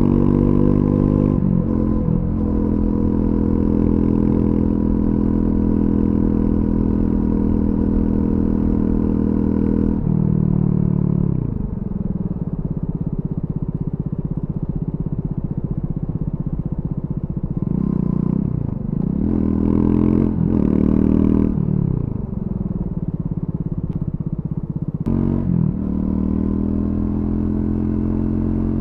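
Triumph Scrambler 400X's single-cylinder engine through its stock exhaust, under way at steady revs. About ten seconds in the revs fall away as the bike slows. Two short rises and falls follow around the middle, and near the end the revs climb sharply again as it pulls away.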